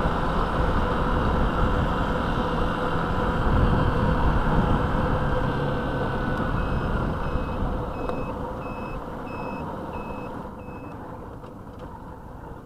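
Yamaha motorcycle riding through town traffic, its engine and road noise steady on the camera microphone and easing toward the end. From about halfway in, a high electronic beeper sounds about seven short beeps, roughly one every half second, like a vehicle's reversing alarm.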